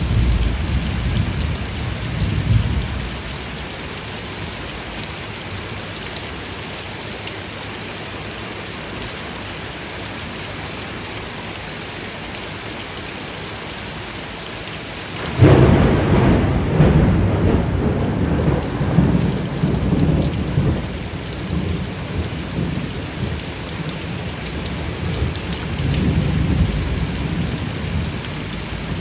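Steady rain hissing, with thunder: a low rumble dies away in the first few seconds, then about halfway through a sudden loud thunderclap breaks and rolls on in low rumbles that swell again near the end.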